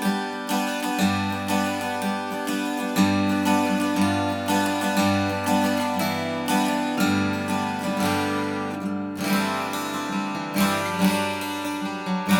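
Solid rosewood acoustic guitar being played, with fingerpicked or lightly strummed chords and a new bass note about every two seconds.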